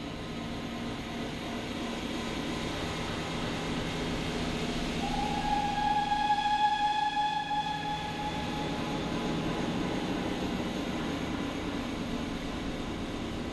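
Train running past, its rumble swelling and then easing off, with a long, steady-pitched whistle starting about five seconds in and fading away.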